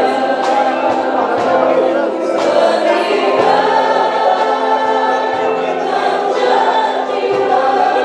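A choir or congregation sings a worship song to band accompaniment, over a steady beat.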